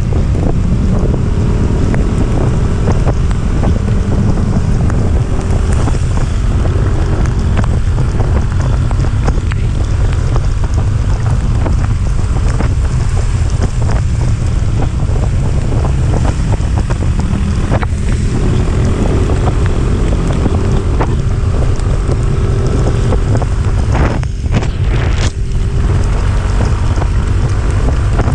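Loud wind buffeting the microphone on a moving vehicle climbing uphill, with an engine's hum underneath that wavers in pitch.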